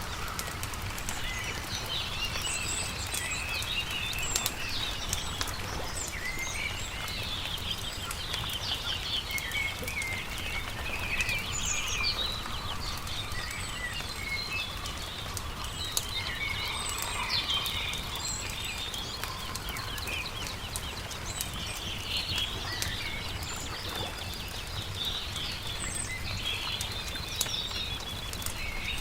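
Several small birds chirping and trilling continuously, over the scattered crackle and pops of a campfire and a steady low hum.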